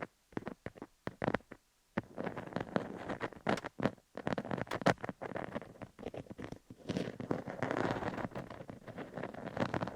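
Fingers scratching over a rhinestone-covered dummy-head microphone, picked up close. A few separate short scratches come first, then dense, continuous scratching from about two seconds in.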